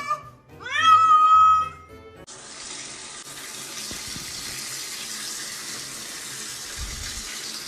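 A loud, drawn-out meow-like call that rises and then holds its pitch, then tap water starts running about two seconds in and pours steadily.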